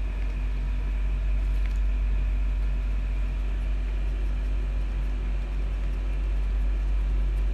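Steady low hum with a constant background noise and no clear events.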